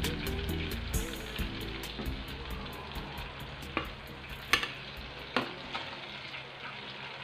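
Chunks of boiled pork belly deep-frying in a wok of hot oil: a steady sizzle with scattered sharp pops. Background music fades out about a second in.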